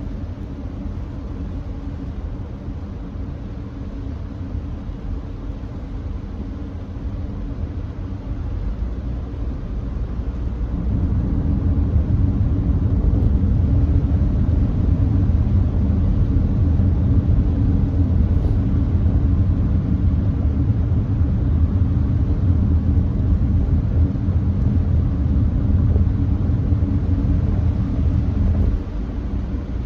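Steady road and tyre noise of a Nissan Note e-Power at expressway speed on a wet road, heard inside the cabin as a low rumble. It grows louder about a third of the way in and drops suddenly near the end.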